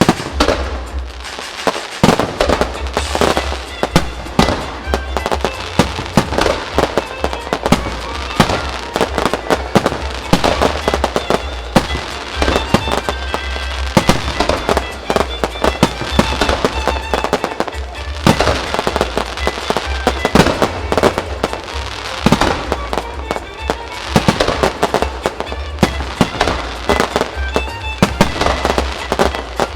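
Aerial fireworks going off in a dense, continuous barrage of bangs, one after another with hardly a gap, with music playing underneath.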